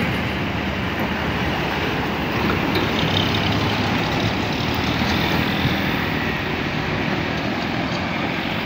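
Steady road-vehicle noise: engines and tyres running at an even level, with no single event standing out.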